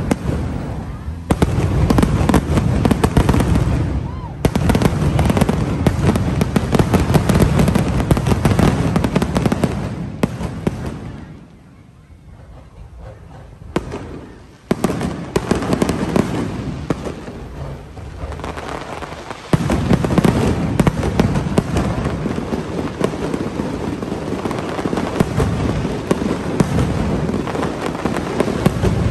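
Fireworks show: dense, continuous bursts and crackling. They ease to a quieter lull about eleven seconds in, then build back up about three seconds later.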